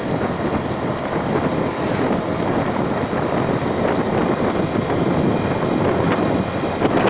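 Steady rushing wind buffeting the microphone on a moving vehicle, with the vehicle's running noise underneath.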